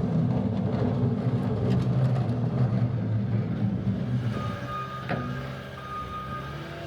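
Heavy truck's engine running loud and close, easing off after about four seconds; then a reversing alarm starts beeping in long, steady, single-pitch tones, with one sharp knock about five seconds in.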